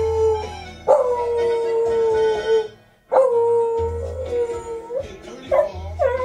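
A dog howling in long, steady held howls about two seconds each, breaking into shorter yips and whimpers near the end.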